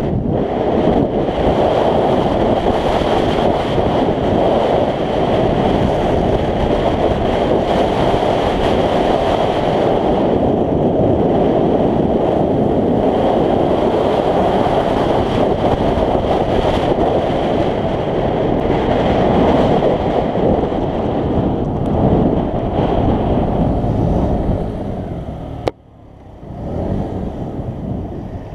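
Heavy wind buffeting on the action camera's microphone while riding a scooter, with a steady high whine underneath. Near the end a sharp click cuts the noise off, and a quieter engine sound follows.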